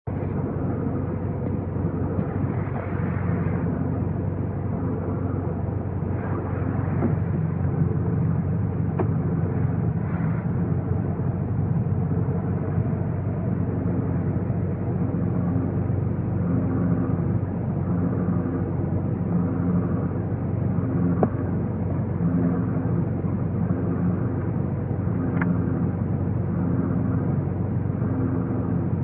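Grinding noise from a 2015 Volkswagen GTI Autobahn over a steady low vehicle drone, a fault the owner calls horrible. In the second half the grinding pulses in a regular cycle, about once every second and a half.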